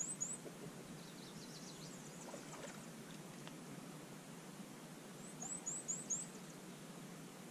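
A small songbird singing a quick run of about five very high, sharp notes, twice: at the start and again about five and a half seconds in, with fainter high bird calls in between.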